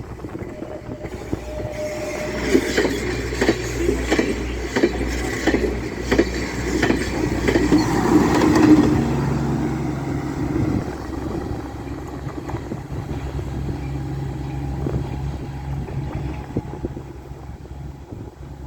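Kominato Railway Boso Satoyama Torokko sightseeing train passing close by, its wheels clacking over rail joints in quick runs that are loudest about eight or nine seconds in. After that the clacking thins out under a steady low engine hum as the train moves on.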